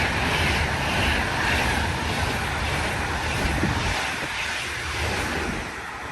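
A passing train's rumble and rush, with a regular beat about twice a second at first, fading steadily as the train moves away.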